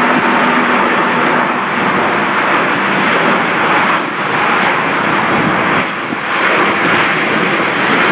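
Airbus A350-900 jet engines (Rolls-Royce Trent XWB) at takeoff thrust: a loud, steady jet noise, with brief small dips about four and six seconds in.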